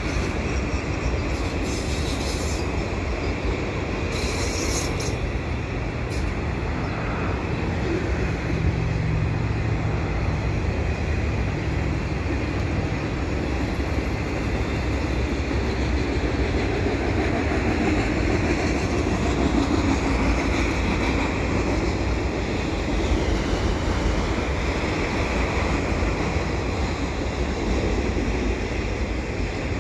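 Freight train of autorack cars rolling past: the steady, even noise of steel wheels on the rails.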